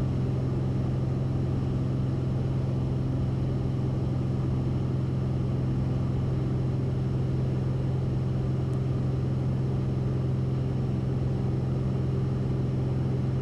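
Cessna 172RG's four-cylinder Lycoming O-360 engine and constant-speed propeller droning steadily at climb power, heard inside the cabin as a constant low hum.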